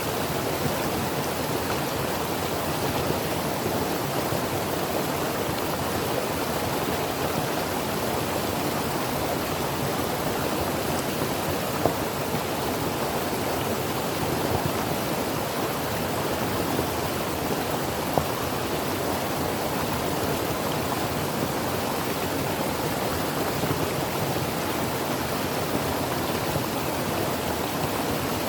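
Creek water running over rocks: a steady, even rush with occasional small splashes.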